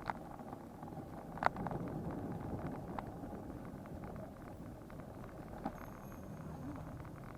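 Road noise from a bicycle ride: a steady low rumble with scattered clicks and rattles. It grows louder for a few seconds from about a second and a half in.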